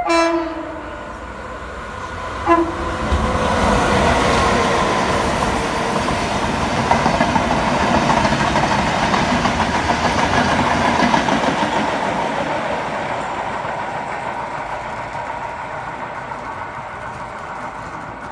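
Renfe class 269 electric locomotive sounding its horn, one blast ending about half a second in and a short second blast about two and a half seconds in. The locomotive and its string of old coaches then run past, the rolling noise of wheels on rails building, loudest in the middle, and fading as the train goes away.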